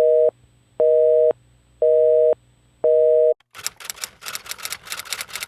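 Telephone busy signal: four beeps of a two-pitch tone, half a second on and half a second off, then about two seconds of rapid clicking.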